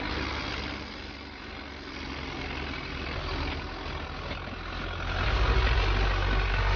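A heavy machine's engine running steadily with a low hum, growing louder about five seconds in.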